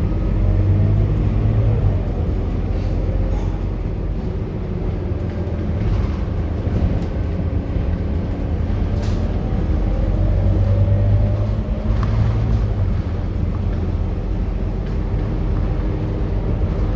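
Scania K230UB single-deck bus's diesel engine running on the move, its note swelling and rising slightly as it pulls, with a few brief clicks and rattles.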